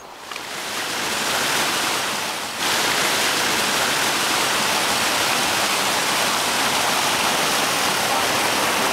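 Whitewater of the Middle Fork of the Flathead River rushing past a raft, a steady wash of water noise. It builds over the first second or two and jumps louder about two and a half seconds in.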